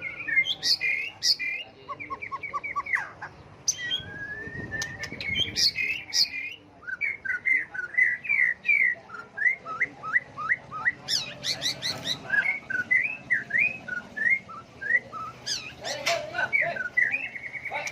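White-rumped shama singing a long, varied song: whistled phrases, quick runs of repeated notes and sharp high notes, switching from one phrase to the next without pause.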